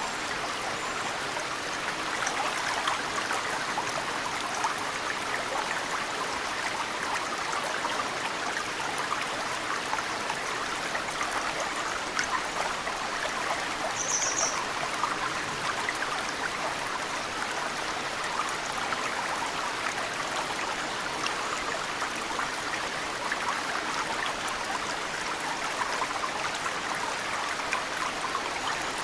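Mountain stream flowing steadily, with snowmelt trickling and dripping into the water in many small splashes. A short high chirp, likely a bird, sounds once about halfway through.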